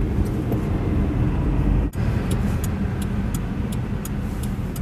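Car driving in slow traffic heard from inside the cabin: a steady low rumble of engine and tyres on a slushy road. There is a brief dropout about two seconds in, with light ticking after it.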